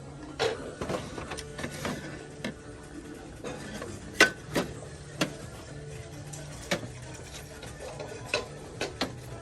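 Irregular clicks, knocks and clinks of objects being handled and set down, about a dozen, the loudest about four seconds in, over faint background music.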